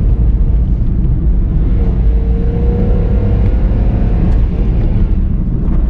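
Car driving on a rough road: a steady low rumble of engine and tyres, with a faint engine whine that rises slightly in pitch through the middle.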